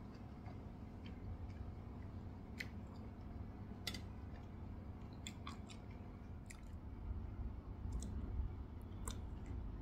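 Close-miked chewing with scattered wet mouth clicks, a person eating soft cake; near the end a sweet cherry is taken into the mouth.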